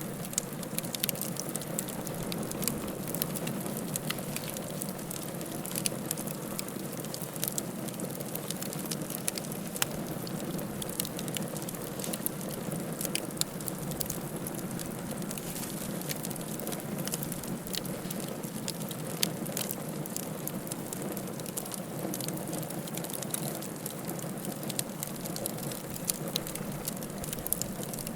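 Wood fire burning in a fireplace, with sharp crackles and pops scattered irregularly over a steady hiss of the flames.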